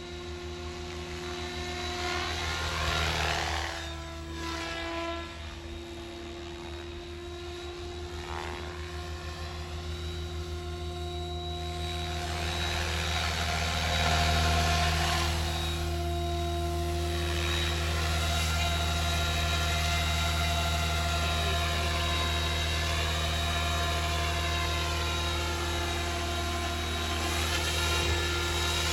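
SAB Goblin 570 electric radio-control helicopter in flight: the steady whine of its motor and rotor with a whooshing blade sound. It grows louder about halfway through, and its pitch wavers as the helicopter manoeuvres.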